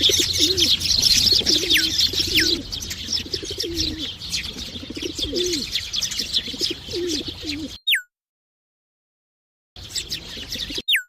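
Eurasian tree sparrows chirping in a dense, busy chatter, with a low call repeating about once a second underneath. The sound cuts to dead silence about eight seconds in, returns briefly, then cuts out again.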